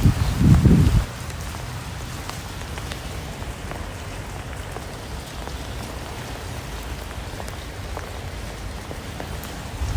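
Steady rain falling, with individual drops ticking sharply over an even hiss. A low rumble of wind buffeting the microphone fills the first second, then stops abruptly.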